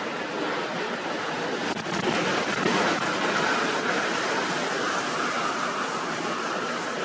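Lake surf driven by a gale, a steady rushing roar mixed with wind, swelling about two seconds in and easing slowly after.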